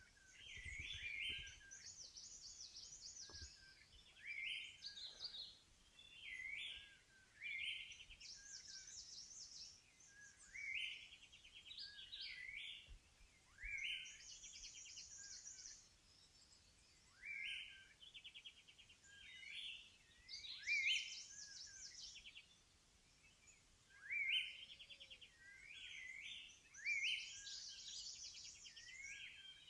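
Songbirds singing: short rising whistled notes and fast high trills, repeated every second or two.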